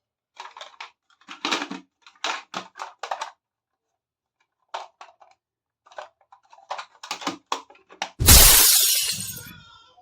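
Small plastic toy kitchen pieces and packaging being handled: a string of short clicks, taps and rustles, then one loud crunching noise near the end that fades out over about a second.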